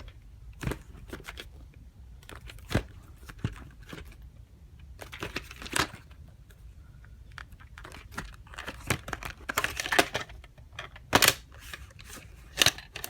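Handling of VHS tapes and their plastic cases: irregular clicks, knocks and crinkly rustling, with a few sharper knocks in the second half.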